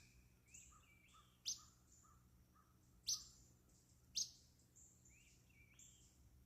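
Wild birds calling: three sharp, loud downward chips about a second and a half apart, over faint high twittering and a short run of soft lower notes.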